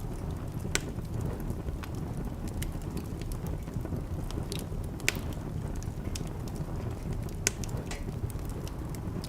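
Wood fire burning in a fireplace: a steady low rumble of flames with scattered sharp crackles and pops, the loudest about one second, five seconds and seven and a half seconds in.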